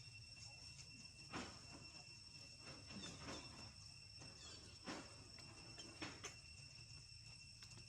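Insects trilling steadily at a high pitch, with a few short, sharp sounds at about one and a half, three, five and six seconds in.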